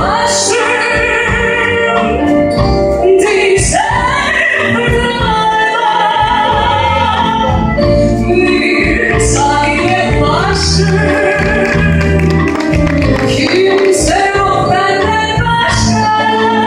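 A live band accompanying a solo singer who holds long notes with vibrato over a steady bass line.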